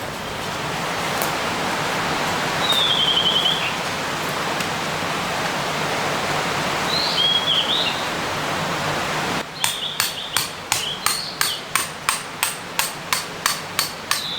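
A steady rushing outdoor background with two short bird trills, then, after an abrupt cut, a run of sharp, evenly spaced hammer knocks, about three a second.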